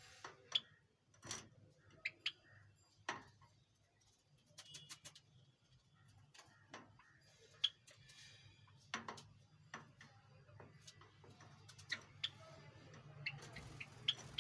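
Caged Java sparrows: scattered sharp clicks and short, high chirps at irregular intervals, over a faint steady low hum.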